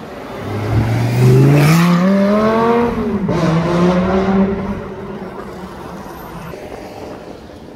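A supercar accelerating hard, its engine note rising, then dropping sharply in an upshift about three seconds in and rising again before it fades away.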